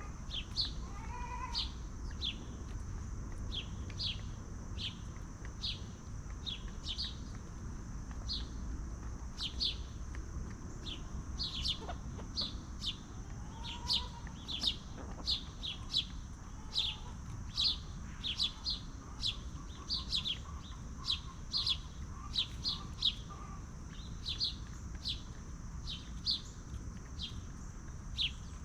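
Small bird or chick chirping over and over, short high downward chirps about one or two a second, over a steady high whine in the background.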